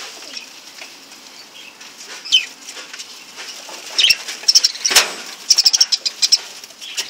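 Lovebirds chattering in quick series of high chirps, with a single falling call a couple of seconds in and a brief louder burst about five seconds in.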